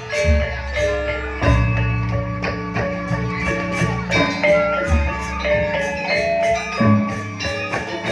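Live gamelan music for a janger dance. Metallophones ring a busy melody of struck notes over occasional low drum strokes.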